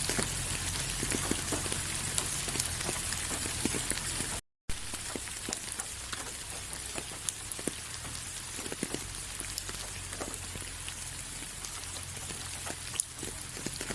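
Steady rain falling, a continuous hiss with many individual drops ticking on a surface. The sound cuts out completely for a fraction of a second about four and a half seconds in.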